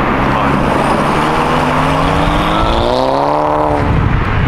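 Car engine accelerating, its pitch climbing steadily for about three seconds, then falling away near the end, over steady road noise.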